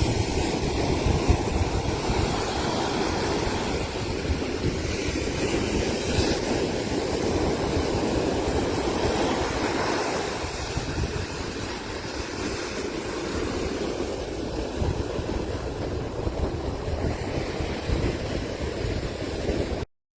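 Strong onshore wind buffeting the microphone with a low rumble, over the steady wash of Atlantic surf. It drops out abruptly just before the end.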